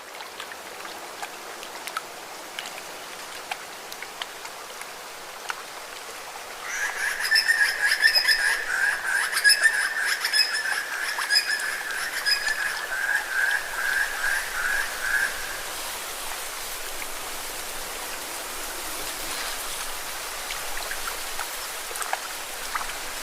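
Lake water washing and splashing against rocks: a steady hiss with scattered small splashes and drips. About seven seconds in, an animal's long, high, pulsing trill starts over the water and runs for about eight seconds before stopping.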